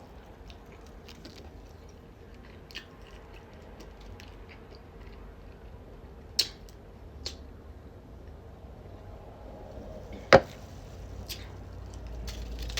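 A person chewing a burrito close to the microphone, with wet mouth smacking and scattered small clicks. There are sharper clicks about six and seven seconds in, and a loud sharp knock about ten seconds in.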